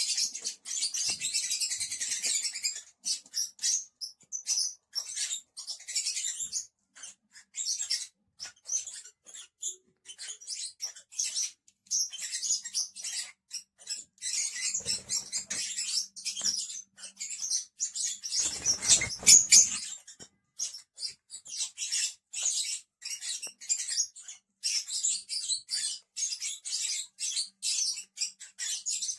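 Several lovebirds chattering, a continuous run of rapid, high-pitched chirps and squeaks, with a louder rustling burst about two-thirds of the way through.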